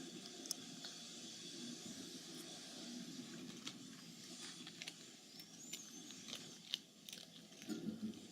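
A cat at a bag of potato chips: scattered sharp crackles and crunches over a low steady background, the loudest a little before 7 s and a cluster near the end.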